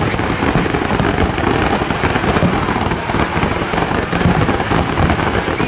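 Aerial fireworks display: a rapid, continuous barrage of shell bursts, booms and dense crackle overlapping without a break.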